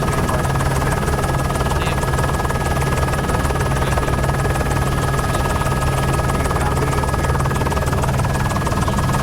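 News helicopter running steadily, its rotor and engine noise picked up on board, with a fast, even pulse.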